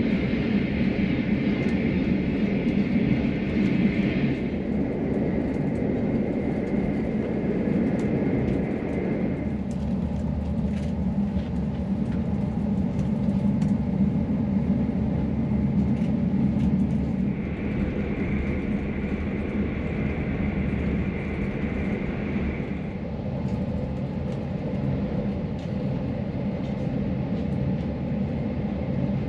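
V/Line N class train running along the line: a steady rumble of the train in motion. Its character changes abruptly about 4, 9, 17 and 23 seconds in.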